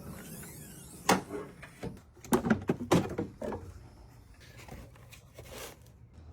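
Several sharp knocks and clanks, about six in the first three and a half seconds, a few with a short ring, from tools and parts being handled during work on a truck.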